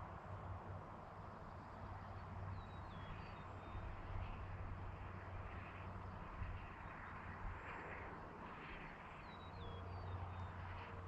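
Quiet rural evening ambience: a steady faint hiss with a low hum underneath. A small bird gives a short phrase of high, falling chirps twice, about two and a half seconds in and again near the end.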